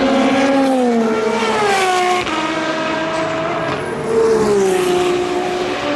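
Endurance race cars running past at trackside, their engine notes falling in pitch as they go by, twice. The sound changes abruptly about two seconds in.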